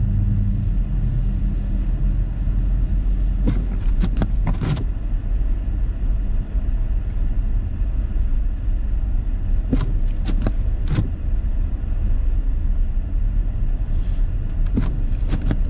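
Car driving through deep unplowed snow, heard from inside the cabin: a steady low rumble of engine and tyres, with a few short knocks about four seconds in and again about ten seconds in.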